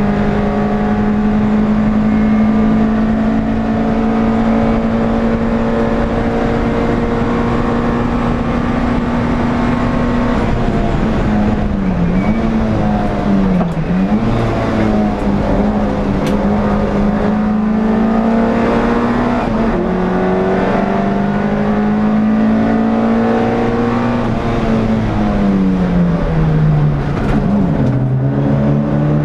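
In-car sound of an NSU TT race car's air-cooled four-cylinder engine at high revs, pulling steadily with the pitch slowly rising, then falling and blipping through several downshifts about ten seconds in. It climbs through the gears again with an upshift a little past the middle, and drops through more downshifts near the end, over steady wind and road noise.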